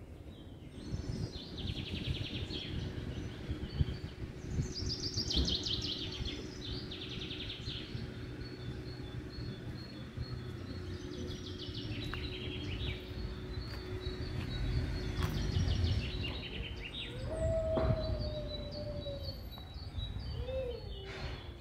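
Small birds chirping and trilling in repeated bursts over a steady outdoor street ambience with a faint low hum. A drawn-out, slightly falling tone sounds about three-quarters of the way through.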